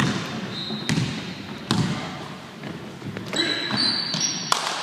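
A basketball bouncing on a court several times, roughly a second apart, with short high squeaks in between.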